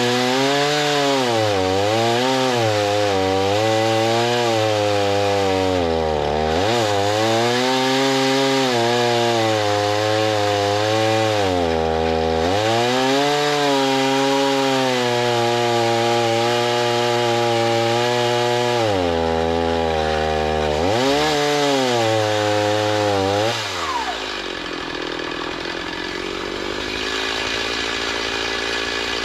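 Chainsaw cutting through a log while milling lumber, its engine speed repeatedly sagging and picking back up under load. A little before the end the engine speed falls away and the saw drops to a lower, steady idle.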